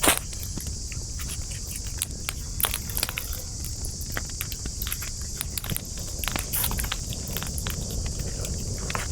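Wood campfire crackling, with frequent irregular sharp pops and snaps and one loud pop right at the start, over a steady high-pitched hiss and a low rumble from the burning.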